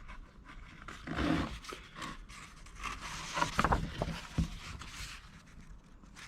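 Paper rustling and scraping as a picture-book page is turned and the book handled, with a few soft clicks. The rustles come about a second in and again, louder, around the middle.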